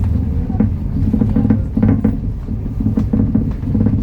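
MAN Lion's City NL293 city bus's diesel engine running with a steady low drone, with short rattles from the bus a few times.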